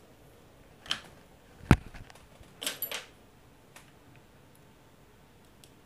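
A few short clicks and taps of small tools handled at a workbench while a jumper wire is soldered onto a circuit board: a light tap about a second in, a louder sharp click just after, and a quick double click near the three-second mark.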